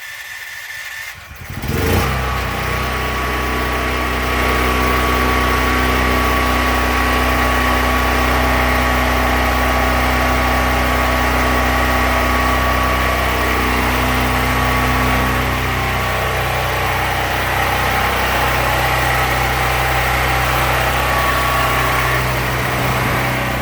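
Duromax 13000EH generator's engine, running on propane, catching on the electric start about two seconds in and settling into a steady run.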